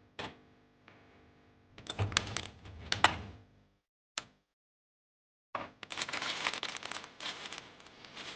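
Knocks and clatter of things being taken out of a refrigerator. About halfway through comes a dense run of small clicks and rustling as shelf items or mats are handled.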